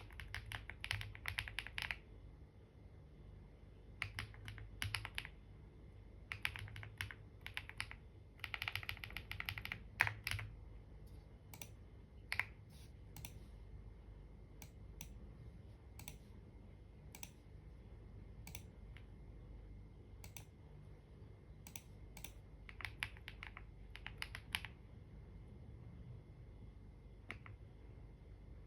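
Typing on a computer keyboard: short runs of quick keystrokes with pauses, and single key presses in the gaps between runs.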